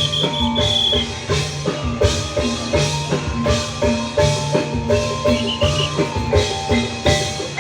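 Tongklek ensemble playing a fast, rhythmic tune on tuned bamboo percussion over drums. A high trilling whistle sounds near the start and again about five and a half seconds in.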